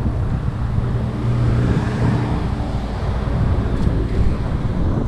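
Steady low rumble of wind buffeting the microphone while riding a bicycle, mixed with road traffic noise.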